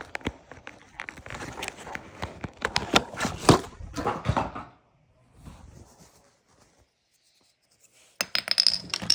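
Plastic toy power coins and their plastic packaging being handled: a run of clicks, taps and clinks for about four and a half seconds, a pause, then a second burst of clinking near the end.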